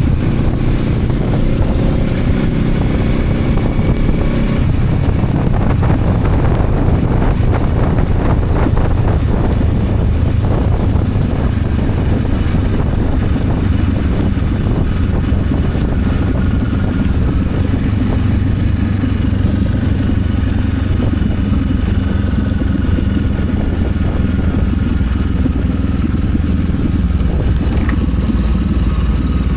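Honda CB500X's parallel-twin engine running steadily while the motorcycle is ridden.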